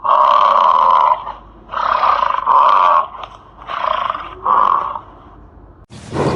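An animal calling five times in loud, rough calls of up to about a second each, with short gaps between them; near the end the sound cuts abruptly to a different, quieter recording.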